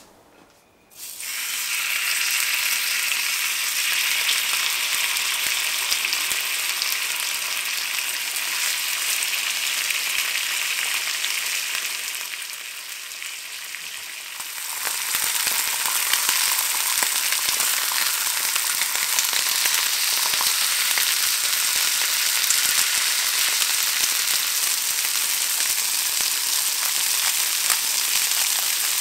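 Fish fillets sizzling as they pan-fry in hot oil in a nonstick frying pan. The hiss starts suddenly about a second in, eases off for a few seconds near the middle, then comes back as strong as before.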